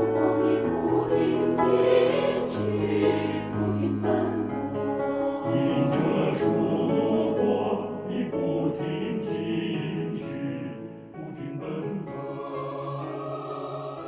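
Mixed choir singing the last phrase of a slow, quiet choral piece in sustained chords, settling about two-thirds of the way through onto a final long-held chord.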